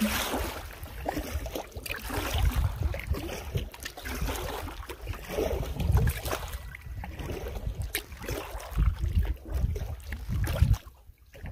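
Wind gusting on the microphone in uneven low rumbles, with scattered knocks from a canoe setting off. The gusts drop away near the end.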